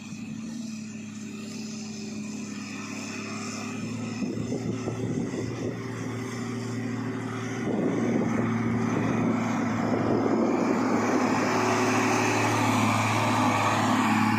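Heavy diesel truck engine running with a steady low hum, growing steadily louder through the stretch as it comes closer.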